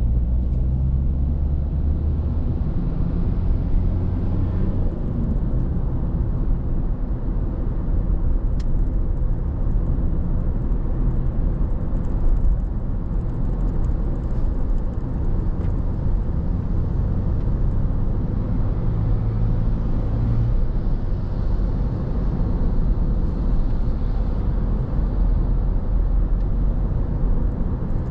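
Car driving on a city road: steady low engine and road rumble, with a hum that shifts in pitch now and then as the car speeds up and eases off.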